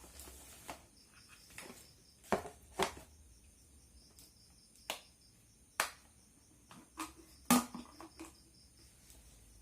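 Scattered handling noise: about ten short clicks and light knocks at irregular intervals, the loudest about three quarters of the way in.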